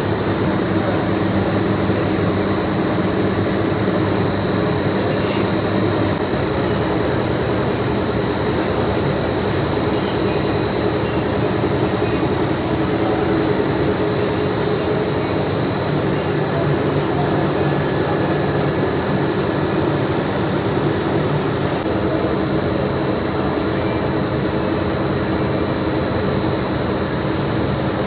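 Steady drone of factory machinery, a constant high whine over a low hum whose pitch shifts about six seconds in.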